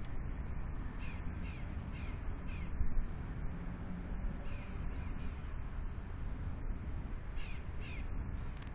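Bird calls: a run of short, downward-sliding calls about two a second, one run about a second in and another near the end, over a steady low background rumble.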